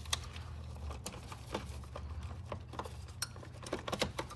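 Irregular light clicks and small knocks from plastic wiring-harness bulkhead connectors being worked and unplugged by hand.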